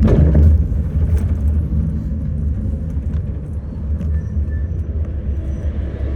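City bus engine and road rumble heard from on board: a steady low hum, with a couple of sharp clicks or rattles in the first second and a half.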